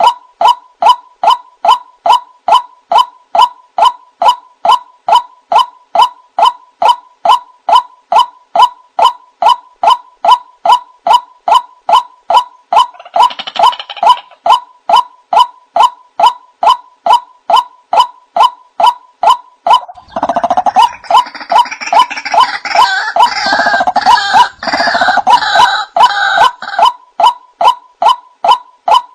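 White-breasted waterhen (ruak-ruak) calling: the same short note repeated evenly, about twice a second. A second, harsher and fuller bout of calling joins in briefly near the middle and again for several seconds later on. It is a lure call used to draw in other waterhens.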